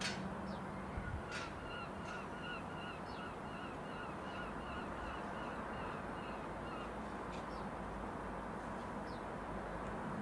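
A bird calling a quick run of about fifteen evenly repeated notes for about five seconds, with a few short high chirps, over steady background noise.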